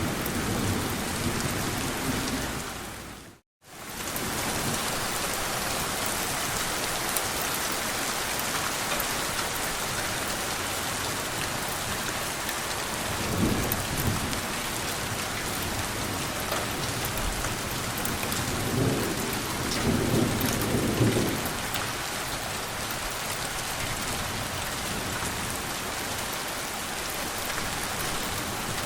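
Steady rain falling, with low rumbles of gentle thunder about 13 seconds in and again around 19 to 21 seconds. The sound drops out to silence for a moment about three and a half seconds in.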